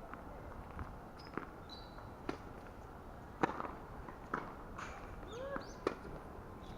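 A series of sharp single hits, about a second apart and loudest a little past the middle, typical of a ball being struck in a rally on a court. A few brief squeaky glides come near the end.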